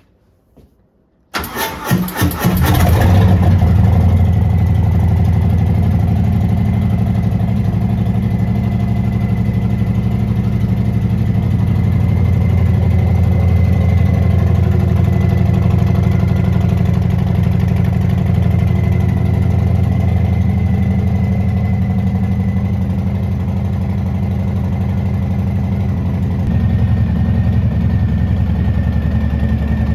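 A 2020 Harley-Davidson Breakout 114's Milwaukee-Eight 114 V-twin is cranked by the electric starter, catches after about a second and settles into a steady idle. The idle grows slightly louder near the end.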